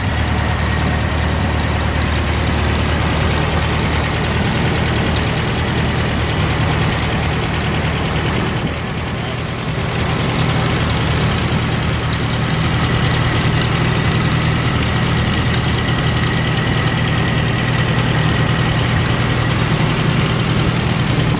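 1931 Ford Model A's four-cylinder flathead engine idling steadily after start-up, its low note shifting slightly about nine seconds in.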